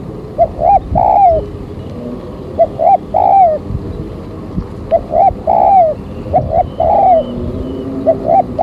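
Spotted dove (tekukur) cooing as a lure call: about five phrases in a row, each two short notes followed by a longer rolling coo.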